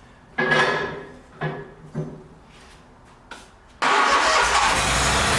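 SCAG mower engine cranked in a few short bursts by the starter, then catching about four seconds in and running steadily.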